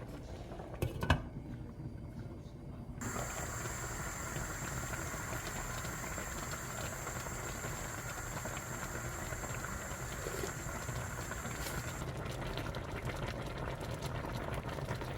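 A short click about a second in, then from about three seconds a steady bubbling hiss of a pot of stew boiling.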